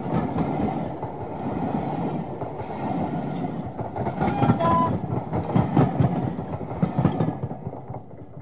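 Full-size passenger train rushing past close by, with a steady rumble and a brief high tone about halfway through. The sound fades near the end.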